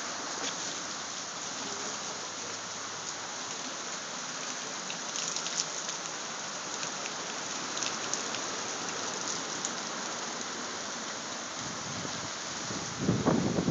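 Steady heavy tropical-storm rain pouring down, with scattered sharp drip ticks. A low rumble swells near the end.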